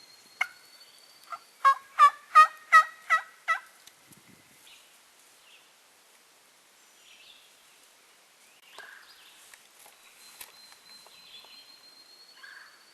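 A run of about six evenly spaced turkey yelps, roughly three a second, starting about a second and a half in, followed by faint rustling.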